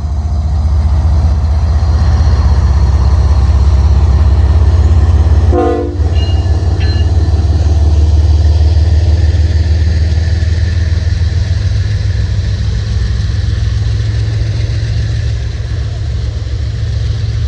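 Diesel locomotive engines rumbling close by as a train creeps slowly past, with a short break and a brief tone about six seconds in.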